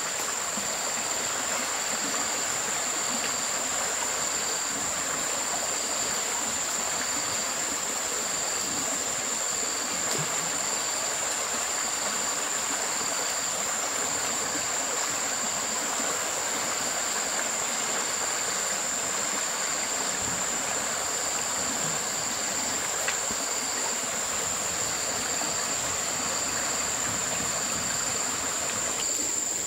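Steady rush of a flowing stream. Over it runs a high, steady insect drone, with a fainter chirp repeating about once a second.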